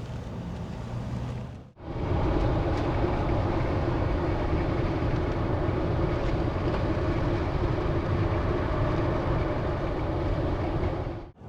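Steady rumble of a vehicle driving, road and engine noise. It becomes louder after a cut about two seconds in.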